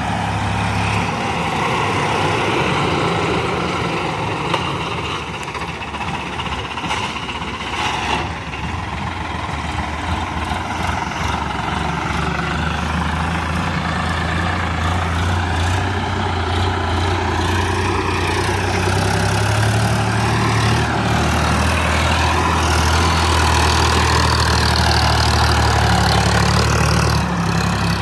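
Tractor diesel engine running steadily, getting louder and stronger about two-thirds of the way through.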